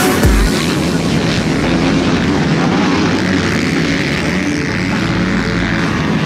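Motocross bike engines running loud and steady.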